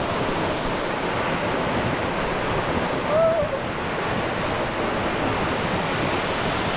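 Waterfall rushing steadily into its pool, with a brief rising-and-falling vocal call about three seconds in.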